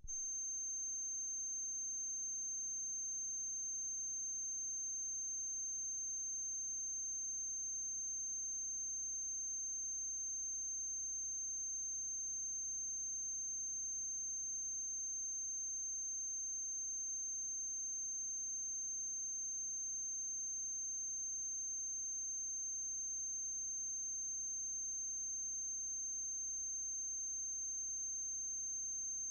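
Steady electrical mains hum with a constant high-pitched whine and faint hiss, unchanging throughout. This is noise from the transfer equipment, since the 1906 film itself carries no sound.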